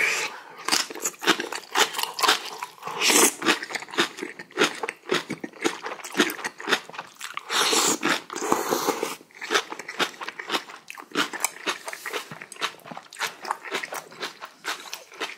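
Close-miked eating: a person biting and chewing a big mouthful of kimchi, with many quick crunches and wet chewing sounds. There is one longer noisy sound about eight seconds in.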